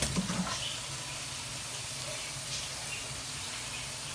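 Green beans frying in a pan, a steady sizzle. A short clatter comes right at the start.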